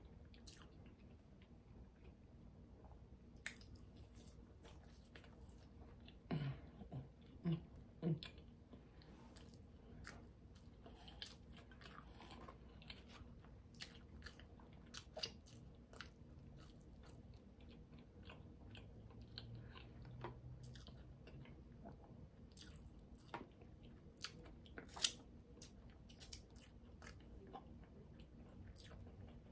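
Quiet, close-miked chewing of McDonald's fries and a McDouble burger: many small wet mouth clicks and smacks. A few brief low hums come about six to eight seconds in.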